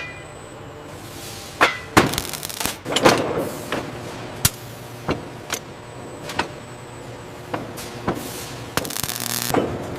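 A series of sharp knocks at irregular spacing, about a dozen in all. The loudest come about two and three seconds in, over a low steady hum.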